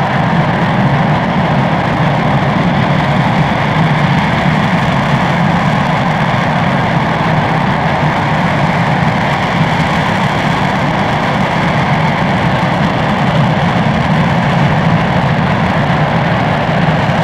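RS-25 liquid-hydrogen rocket engine firing on a test stand: a loud, steady roar that holds at the same level without change.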